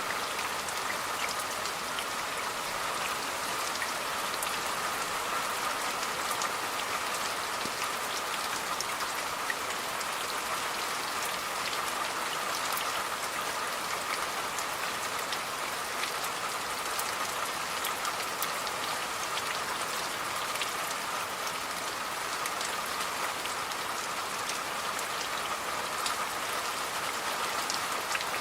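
Steady rain falling, with many single drops ticking sharply among the even hiss of the downpour.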